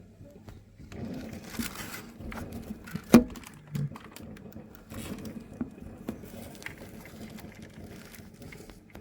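Fireworks popping and crackling, with one sharp loud bang about three seconds in.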